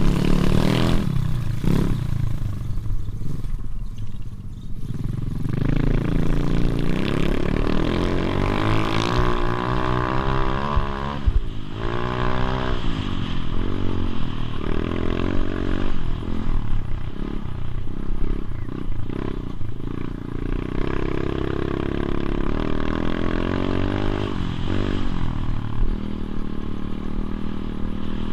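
Motorbike engine being ridden, its pitch rising and falling over and over as the throttle is opened and closed.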